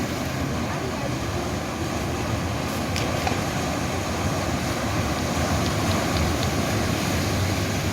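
Atlantic Ocean surf washing steadily onto a beach.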